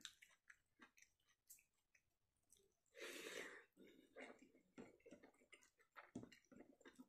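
Faint close-up chewing of a mouthful of rice and fish curry, with soft wet clicks from fingers mixing the rice and curry on the plate. A louder noise lasting about half a second comes about three seconds in.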